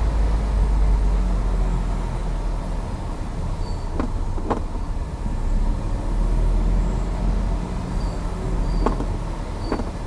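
Seat Ateca steering turned with the car running, making short clicks in two pairs about five seconds apart over a steady low rumble. This is the noise when turning the steering that the owner is documenting.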